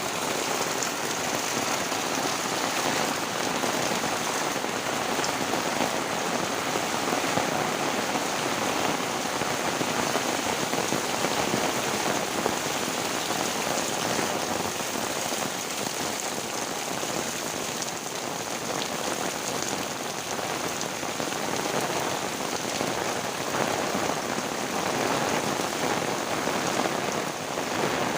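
Heavy rain falling steadily on surfaces: a constant, dense hiss of drops with no letup.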